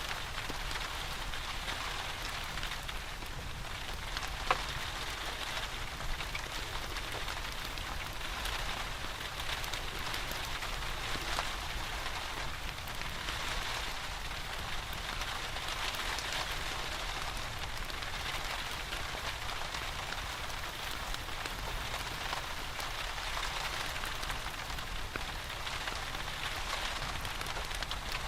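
Steady rain falling, with a single sharp crackle from a wood fire about four and a half seconds in.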